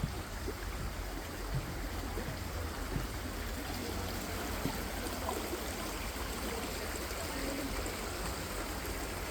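Steady rushing of running water, an even hiss with no rhythm.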